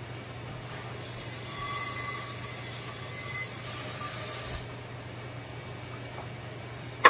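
Food and liquid hissing and sizzling in a hot pan for about four seconds, then cutting off fairly suddenly, over a steady low hum.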